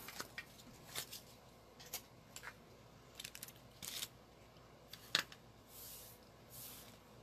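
Scattered light clicks, taps and paper rustles of craft supplies being handled and set down on a work table while it is tidied, with a sharper click about five seconds in.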